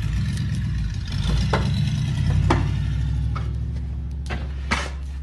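An engine running steadily at a low, even pitch, with a few short knocks or clacks over it.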